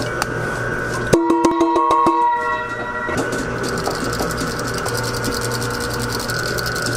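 A machine running with a steady hum and rapid mechanical clicking, with a sharp start and a brief whirring tone about a second in.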